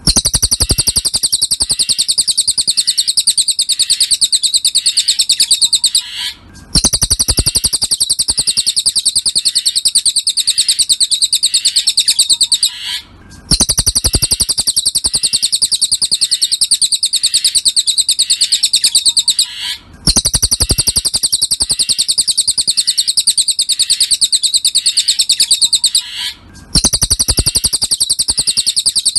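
Cililin birdsong of the kind used for masteran tutoring: a fast, high-pitched trill of rapidly repeated chirps. It comes in even phrases of about six seconds, each broken by a brief pause.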